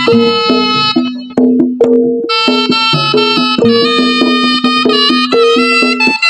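Javanese jaranan music played loud over a sound system: a reedy wind melody over gamelan-style pitched percussion and drums, the wind part pausing for about a second near the start of the second half-second block before coming back in.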